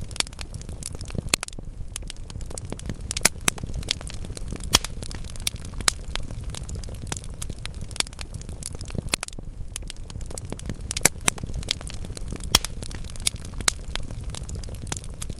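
Wood fire burning in a fireplace: burning logs crackling and popping several times a second over a low steady rumble of the flames.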